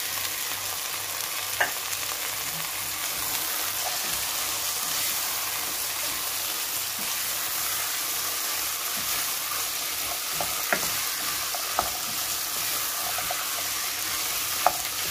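Boiled white beans sizzling as they fry in oil with meat, onion, green pepper and tomato paste, stirred with a wooden spoon in a nonstick pot. The sizzle is a steady hiss, with a few sharp taps of the spoon against the pot.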